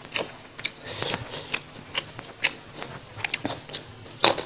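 Close-up eating sounds: crisp crunching and mouth clicks as raw vegetables are bitten and chewed, in irregular sharp clicks a few per second.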